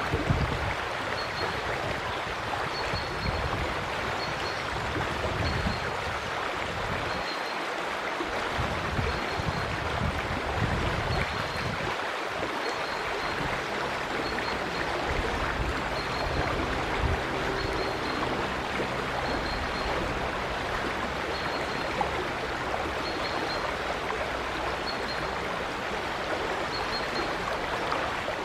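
River water flowing steadily, with a faint short high chirp repeating every second or two.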